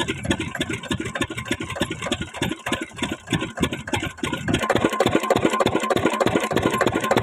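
Lister 8 hp single-cylinder diesel engine starting: a steady beat of firing strokes that falters and weakens for a moment, then about four and a half seconds in turns louder and quicker as the engine picks up speed.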